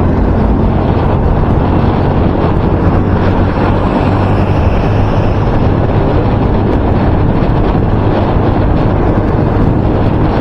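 Loud, steady wind noise buffeting a microphone wrapped in electrical tape, the tape failing to cut it, with a steady low hum underneath.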